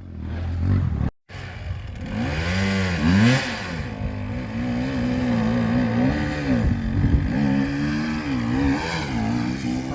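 Enduro motorcycle engine revving unevenly, its pitch rising and falling again and again as the throttle is worked on a climb. The sound cuts out completely for a moment about a second in.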